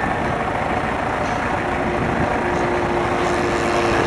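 Propeller engines of several large-scale radio-controlled model warplanes running in flight, a steady engine drone with tones that shift slightly in pitch as the planes move.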